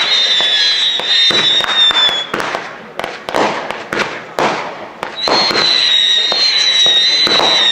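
Fireworks going off in a display: a dense run of sharp bangs and crackles under a steady high whistle. The whistle breaks off about two and a half seconds in, leaving a few seconds of louder rushing bursts, and comes back about five seconds in.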